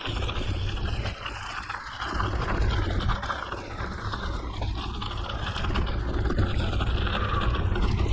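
Mountain bike rolling along a gravel forest road, its tyres running over the loose surface, with wind rumbling on the microphone; the rumble eases briefly about a second in.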